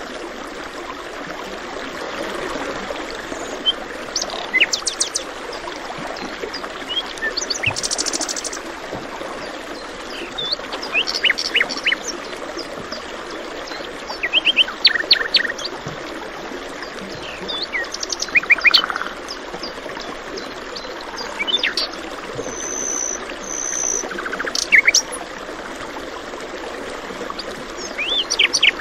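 Songbirds chirping in short clusters of quick descending notes every few seconds, over the steady rush of flowing water.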